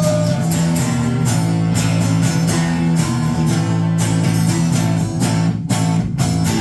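Live band playing an instrumental passage between sung lines: strummed guitar over sustained low bass notes.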